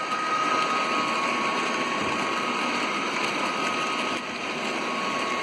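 Märklin model train running past on the layout: a steady electric motor whine over the rolling hum of wheels on track, dropping slightly in level about four seconds in.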